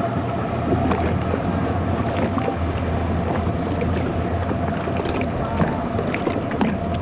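Motorboat running steadily under way: a constant engine drone under wind and water noise, heard from aboard the boat.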